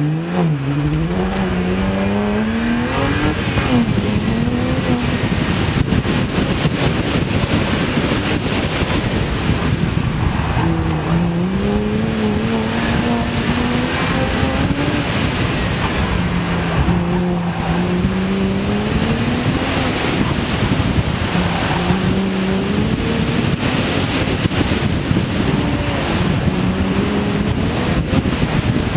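BMW 1M's twin-turbo straight-six launching hard off the start and then rising and falling in pitch again and again as the car accelerates and lifts through an autocross course, over a steady rush of wind and road noise.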